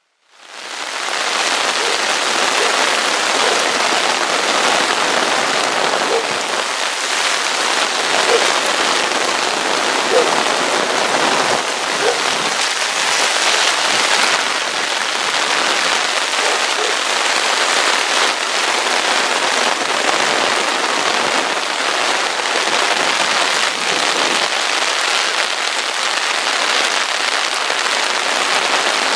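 Heavy tropical-storm rain pouring steadily onto pavement and standing floodwater, a dense even hiss that fades in at the very start.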